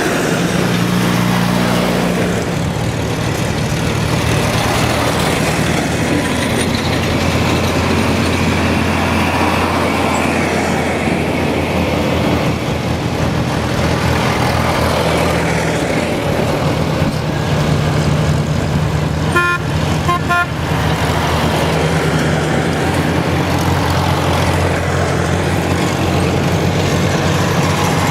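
Farm tractor engines running steadily, with a vehicle horn giving a quick run of short toots about two-thirds of the way through.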